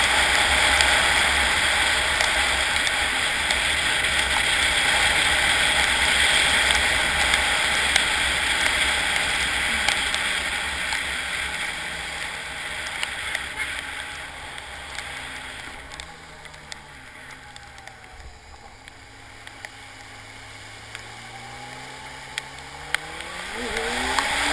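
Rushing water of a flooded creek, loud at first and fading after about ten seconds. Underneath it a motorcycle engine runs faintly, its pitch climbing near the end as it revs.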